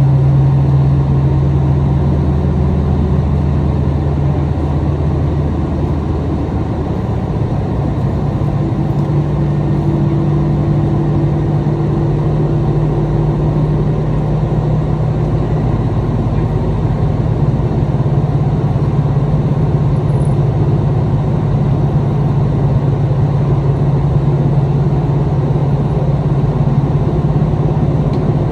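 Inside a KiHa 261 series limited express diesel railcar while running, heard from a seat midway between the front and rear engine units: a steady diesel engine drone mixed with wheel-on-rail rumble. The pitch of the engine hum shifts a few seconds in.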